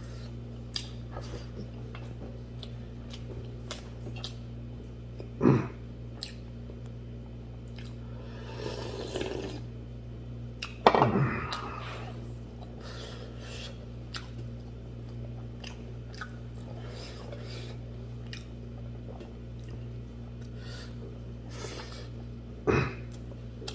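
Close-miked eating of buffalo leg soup with rice: chewing with small wet clicks and smacks throughout, and three louder wet mouth sounds about five, eleven and twenty-three seconds in, over a steady low hum.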